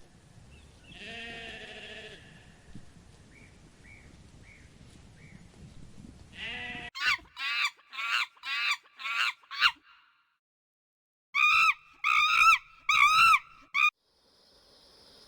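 Livestock bleating: a lower call about a second in, then a quick run of about eight short high-pitched bleats, a break, and four more.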